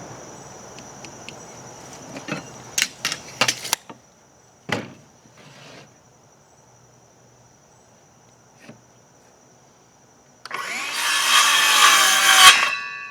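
Power saw cutting through a wooden board for about two seconds near the end, the cut stopping abruptly with the motor's tone fading after. Earlier come a few sharp knocks and taps from handling the lumber.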